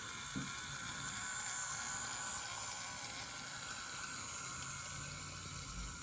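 Toy electric train locomotive running on its track, its small motor and wheels giving a steady whir, with a single click about half a second in.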